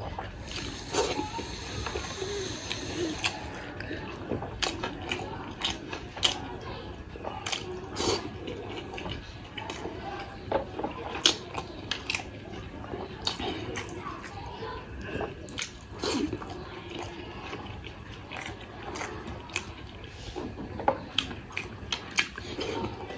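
Close-miked eating of steamed buff momos at challenge speed: continuous wet chewing with irregular sharp clicks and smacks. A brief hiss comes in during the first few seconds.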